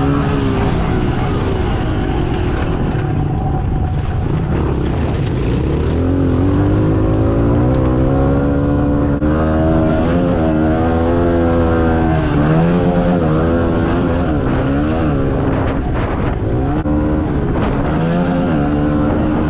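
Small four-stroke pit bike engines racing, their pitch rising and falling over and over with the throttle and gear changes.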